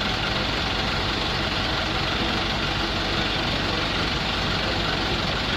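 Truck crane's engine running steadily at an even level.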